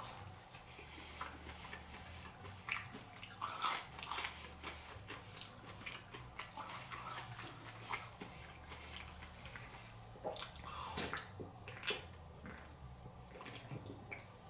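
A person chewing and biting into crispy fried chicken close to the microphone, with irregular crunches and wet mouth sounds.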